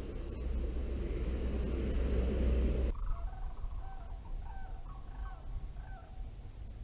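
Steady rushing noise for about three seconds that cuts off suddenly, followed by a bird calling: a run of short, repeated pitched notes, about six or seven, from an unidentified bird.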